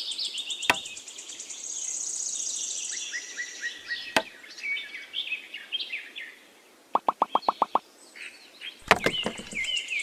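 Small birds chirping and twittering throughout, with a few sharp knocks. About seven seconds in there is a quick, even run of about eight taps.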